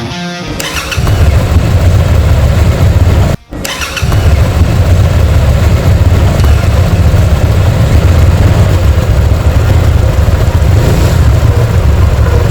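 Hyosung GV300R's 300 cc V-twin engine running steadily through its exhaust, loud and deep. The sound cuts out briefly about three and a half seconds in, then picks up unchanged.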